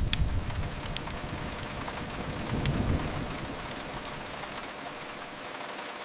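Steady rain with sharp crackles from a wood fire. A low rumble fades in the first second and swells briefly again about two and a half seconds in.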